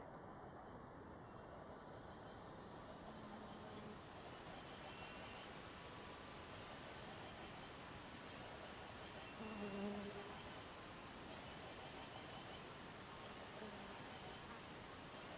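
High, rapid trilling sunbird call phrases, each about a second long and repeated every one and a half to two seconds, the looped MP3 lure call played to draw in a kolibri wulung sunbird.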